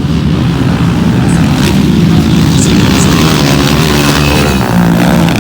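Motocross motorcycle engines running at high revs, the pitch rising and falling as the bikes accelerate and shift.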